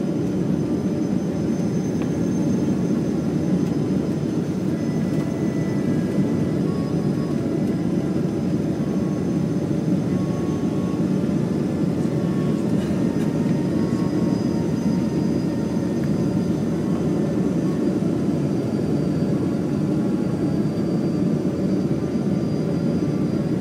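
Steady cabin noise of a Boeing 777 descending on final approach: an even rush of air and engine sound, with faint thin whines above it and no sudden events.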